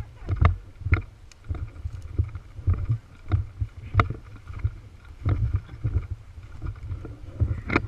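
Footsteps on rough ground and knocks of the body-worn camera, irregular, about one or two a second, over a low wind rumble on the microphone.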